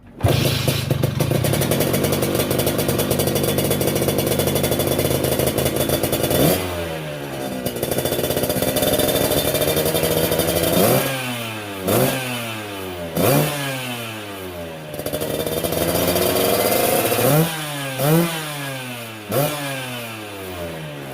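Vespa PTS two-stroke scooter engine, bored up to 152cc, running through a PRP Racing MDM racing exhaust. It is held at high revs for several seconds, then drops back, and is blipped sharply several times, with a second held rev and more quick blips near the end.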